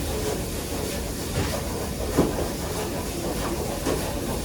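Busy commercial kitchen: a steady rush of ventilation and cooking noise, with a few short knocks and clinks of pans and utensils.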